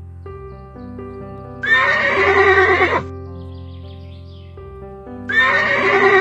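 A recorded horse neigh, added as a sound effect for the toy horse, plays twice a few seconds apart, each whinny lasting just over a second. Soft background music with long held notes fills the gaps between them.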